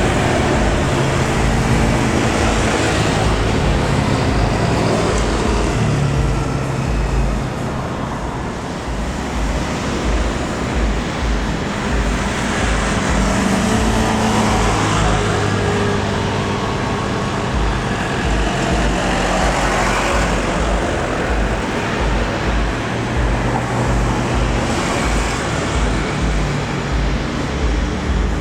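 Steady, loud roar of road traffic, with vehicles swelling past a few times.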